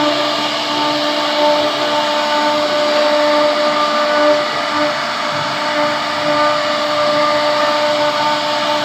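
CNC wood-carving router's spindle motor running with a steady whine over a constant hiss.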